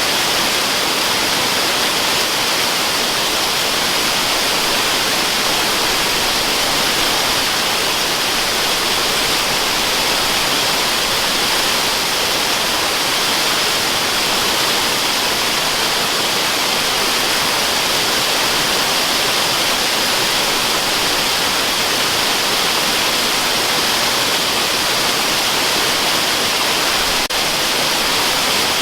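Waterfall rushing: a steady, unbroken hiss of falling water, brightest in the upper range, used as white noise.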